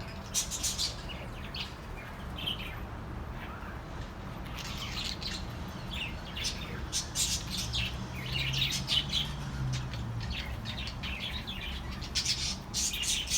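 Budgerigars chirping and chattering in quick clusters of high chirps and squawks, over a faint low hum.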